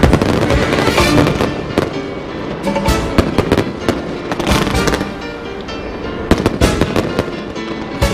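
Fireworks bursting in quick clusters of sharp bangs and crackles, over loud music.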